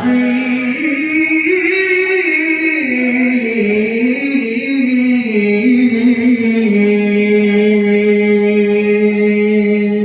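A man's voice chanting in the melodic Quran recitation (tilawah) style, drawing out long ornamented notes that waver up and down before settling on one held tone that ends right at the close.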